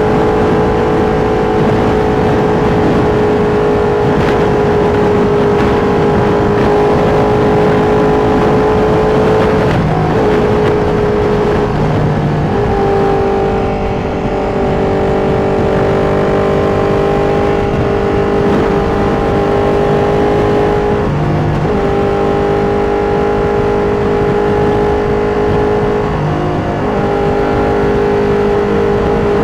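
Ducati Panigale V2 sport motorcycle's twin-cylinder engine running at steady highway speed, loud and continuous. The note breaks briefly three times, about a third of the way in, two-thirds in and near the end, each time settling at a slightly different pitch.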